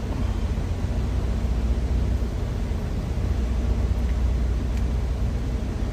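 Steady low drone of an idling semi-truck diesel engine, heard from inside the cab.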